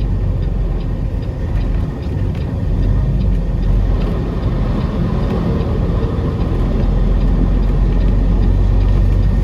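Semi-truck engine and road noise heard from inside the cab while driving slowly: a steady low rumble that grows a little louder about three seconds in.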